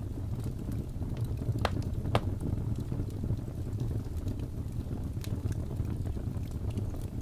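Wood fire in a fireplace, burning with a steady low rumble and scattered sharp crackles and pops. The loudest pops come as two close together about two seconds in and one about five seconds in.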